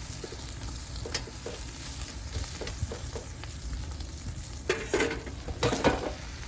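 Fried rice sizzling in a large iron frying pan over a wood fire, stirred with sharp scraping strokes against the pan, the strongest cluster of scrapes near the end.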